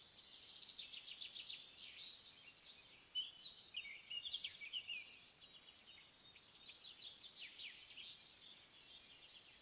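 Faint birdsong: small birds chirping, with rapid trills of repeated notes and short falling whistles.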